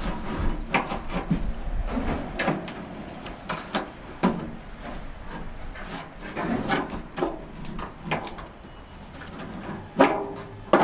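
Irregular clicks, knocks and scrapes of hand work on an old pickup truck door's parts and hardware, with a louder knock near the end.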